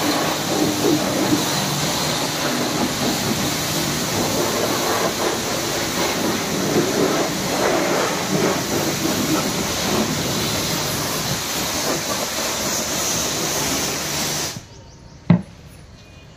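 Pressure-washer lance spraying with a steady hiss, which cuts off suddenly near the end, followed by a single sharp click.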